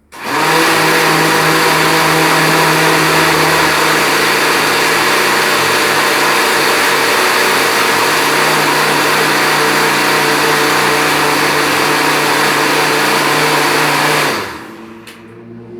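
Countertop blender motor running at full speed, blending garlic cloves with water: it starts abruptly, runs loud and steady, and cuts off about fourteen seconds in, with a single click just after.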